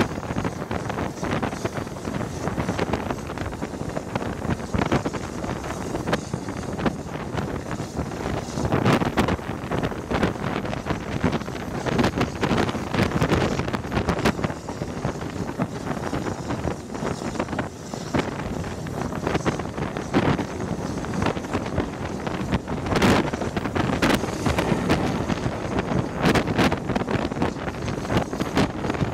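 Wind buffeting the microphone held out of a carriage window on a train hauled by BR Standard Class 9F steam locomotive 92214, over the steady running rumble of the coaches on the track. Irregular clicks and knocks come through all the way.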